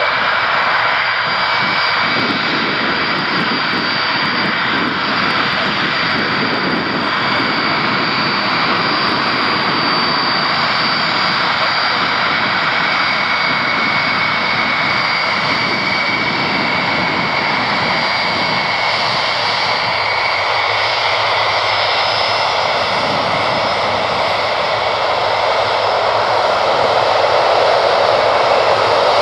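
Rolls-Royce RB211 jet engines of a Boeing 747-200 freighter running loud, a steady screaming roar with high whining tones, growing a little louder near the end.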